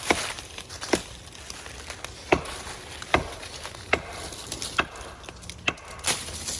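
A stick rapping on a dead tree trunk: about eight sharp wooden knocks, roughly one a second and unevenly spaced. The tapping is meant to flush squirrels out of the tree for the hawk.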